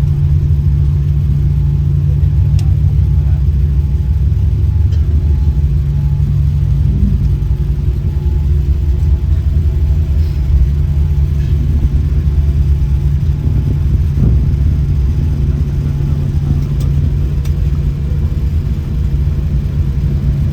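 Steady, loud low rumble inside the cabin of a Boeing 787 airliner, engine and airframe noise with a constant low hum, heard from a passenger seat. A few faint ticks sit over it.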